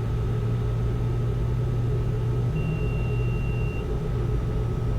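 Steady cockpit drone of a Learjet 60 on final approach, with a faint even whine above it. A little past halfway, a brief high steady tone sounds for about a second.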